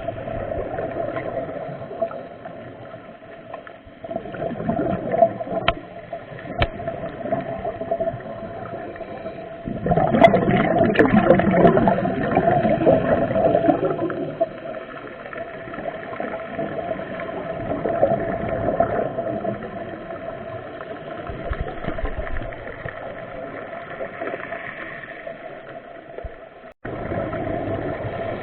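Underwater sound during a scuba dive: bubbles gurgling over a steady hum, with a loud surge of bubbling about ten seconds in that lasts some four seconds.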